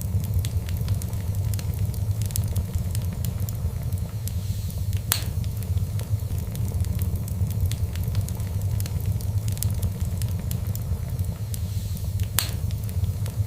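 Fire burning in a fireplace: a steady low rumble with constant small crackles, and two sharp louder pops, one about five seconds in and one near the end.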